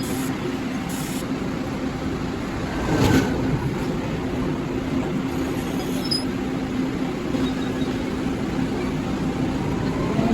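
Taiwan Railways train and station noise: a steady rumble and hiss with a constant hum, swelling briefly about three seconds in.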